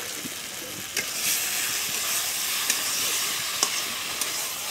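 Peas-and-paneer masala frying in a kadhai as a flat metal spatula stirs and spreads it, with a steady sizzle that gets louder about a second in. A few sharp clicks of the spatula against the pan come through.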